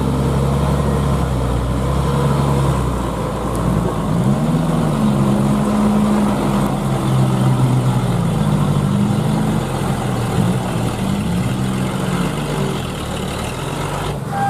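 Heavy truck's diesel engine running, its pitch rising about four seconds in and then wavering up and down.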